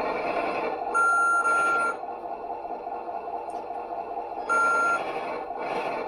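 Electronic beeps from a radio-controlled scale truck's sound unit, a long beep about a second in and a shorter one near the end, over the model's steady running noise.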